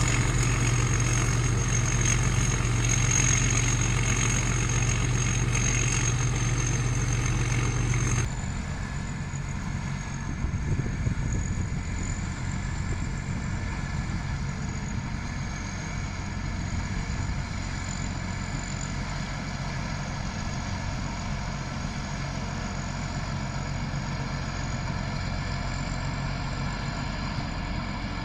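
Rice combine harvester running steadily, a low engine drone with a thin high whine over it. About eight seconds in, the sound abruptly becomes quieter, then carries on steadily.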